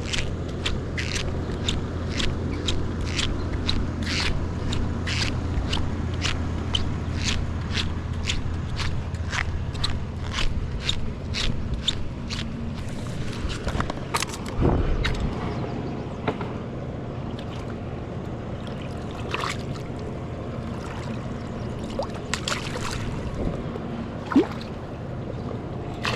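A jon boat's outboard motor running, with a quick, regular series of sharp slaps of water against the hull. About halfway through the motor note drops and the slapping thins out to a few scattered knocks.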